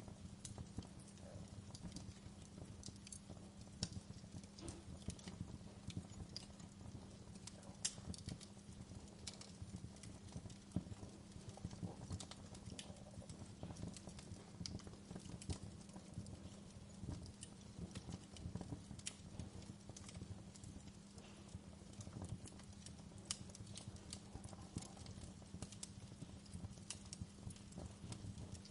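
Fireplace crackling: irregular sharp pops and snaps over a steady low hum.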